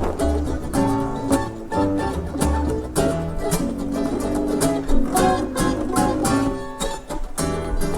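An acoustic string trio playing an upbeat tune live, with strummed and picked guitar-like strings over a steady beat.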